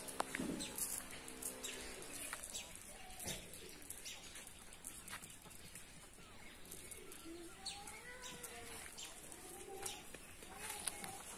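Birds calling in the open, with scattered short chirps and several rising-and-falling calls in the second half, over a low outdoor background with a few faint clicks.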